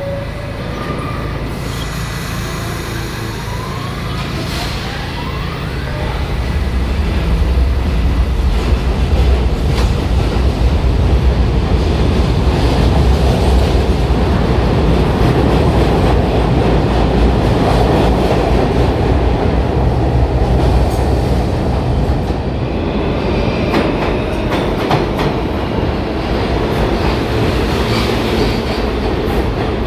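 New York City Subway train running on the BMT Broadway Line through 34 Street-Herald Square station. A heavy rumble of wheels on track builds about six seconds in and holds steady, with thin high-pitched wheel squeal coming in near the end.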